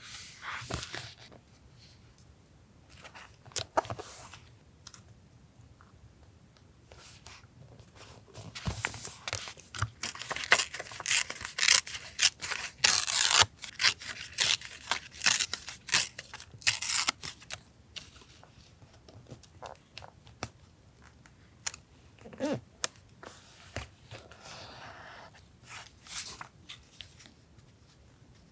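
Paper being handled for a journal collage: scattered light rustles and taps, then a dense run of rapid, crisp paper strokes of tearing or cutting from about ten to seventeen seconds in, then a few more taps.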